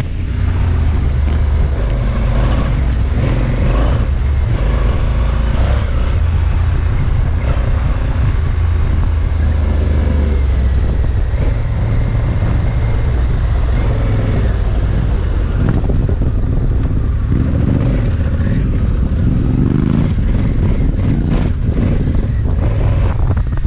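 Adventure motorcycle's parallel-twin engine running under way, with heavy wind buffeting on the microphone; the revs rise and fall a few times in the second half.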